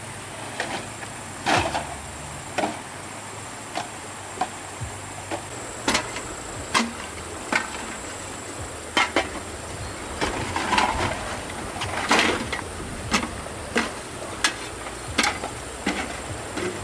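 Irregular knocks and clinks of hard objects being handled and set down, one or two a second, over a faint steady hum.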